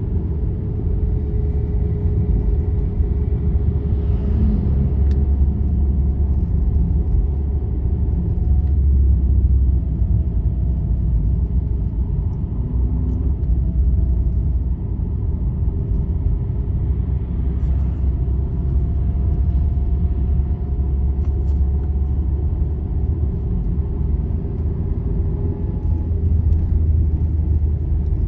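Road vehicle cruising steadily along a highway: a continuous low rumble of engine and tyres, with faint steady engine tones that drift slightly in pitch as the speed changes.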